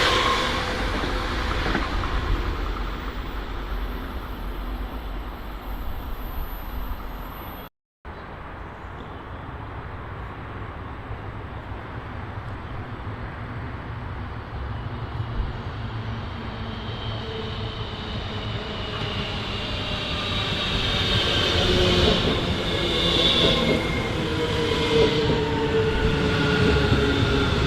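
Electric train running past and fading away. After a sudden cut, another electric train draws closer, getting steadily louder, with several whining tones that slowly fall in pitch.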